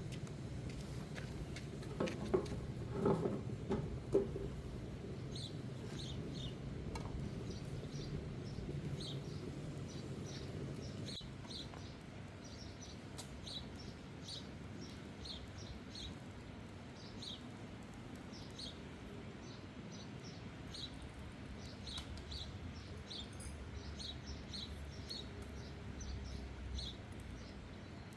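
Small birds chirping, many short high calls repeating through most of the stretch over a low steady background noise. A few knocks and clatters come about two to four seconds in.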